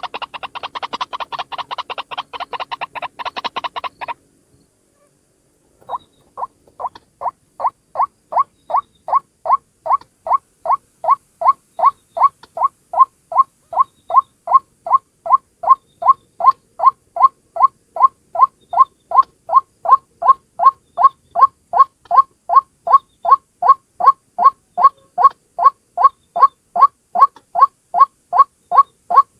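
White-breasted waterhen calls: a rapid, dense run of harsh notes that stops about four seconds in, then, after a short pause, a steady series of single calls about two a second that grows louder.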